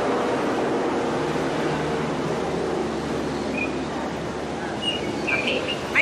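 Steady background din with a few short, high bird chirps in the second half.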